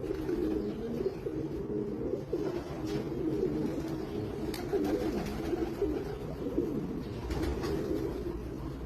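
Racing pigeons cooing: low, warbling coos that overlap one another without a break, with a few faint clicks.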